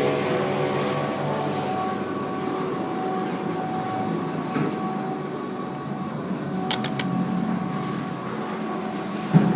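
KDK WZ56W 56-inch industrial ceiling fan running, a steady motor hum with air noise, easing off a little in the first couple of seconds. A few sharp clicks come about seven seconds in, and a short knock near the end.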